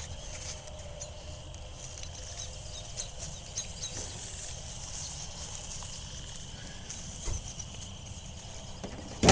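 Quiet outdoor background with a faint steady high-pitched hum, a few light ticks and taps, and one sharp knock at the very end.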